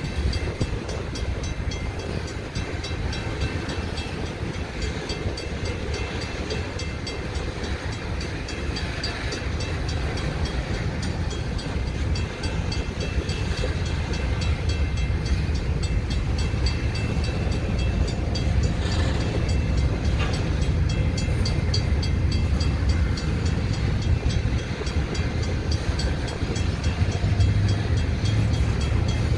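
Freight train of covered hopper cars rolling slowly past: a steady low rumble of steel wheels on the rails, growing a little louder near the end.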